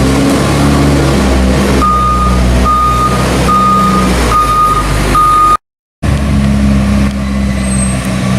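Diesel engine of a heavy farm vehicle running steadily, with its reversing alarm beeping five times at an even pace partway through. The sound drops out for a moment after the beeps, then the engine carries on.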